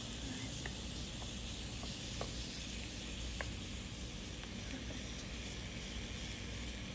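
Beef burger patty sizzling steadily on the hot plate of a mini waffle maker, with a few small crackling pops.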